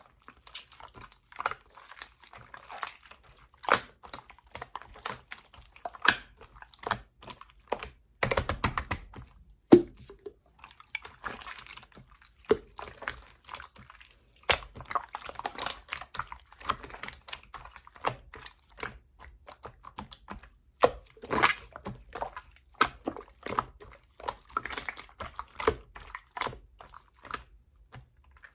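Clear slime being squeezed, folded and pressed by hand, giving a constant run of irregular wet clicks, crackles and small pops, with louder squelching bursts about eight seconds in and again past the twenty-second mark.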